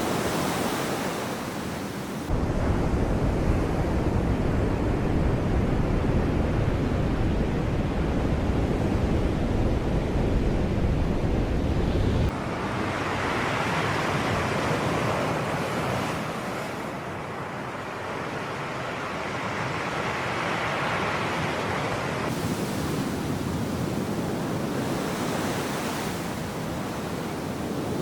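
Sea waves breaking and washing up the shore in slow surges. About two seconds in, a heavy low rumble of wind buffeting the microphone cuts in, and it stops abruptly about twelve seconds in.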